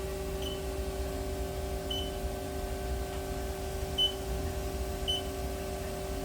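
Four short, high electronic beeps at uneven intervals from a CNC lathe's control, over the machine's steady electrical hum while a probing cycle runs.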